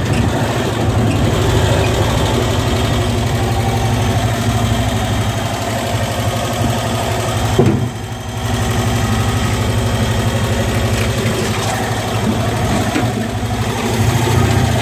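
1980 Cushman Truckster's engine running steadily, with a short dip in level about eight seconds in before it picks back up.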